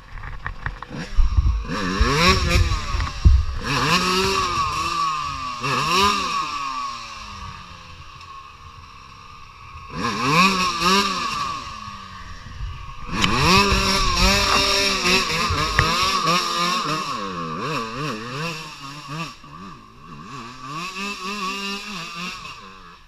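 Motocross dirt bike engine revving hard in repeated bursts, its pitch climbing and dropping as the throttle opens and closes. It eases off briefly in two quieter stretches and fades out near the end.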